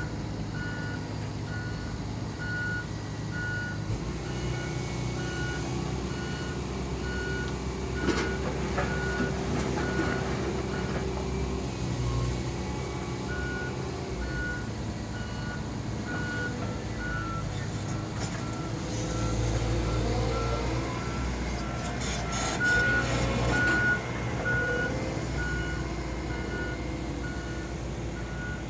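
Excavator engine running with its reversing alarm beeping in short, evenly spaced pips, while masonry from the wall being demolished crashes and clatters at times, loudest a little over twenty seconds in.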